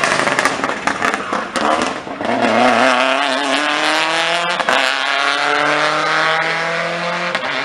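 Rally car accelerating hard, the engine loud with sharp cracks at first, then climbing in pitch through the gears, with a quick upshift about halfway through and another near the end.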